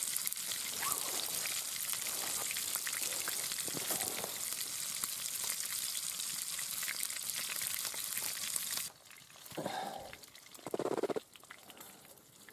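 Steak sizzling and spitting in a hot frying pan over a campfire, a steady hiss with crackles that cuts off suddenly about nine seconds in.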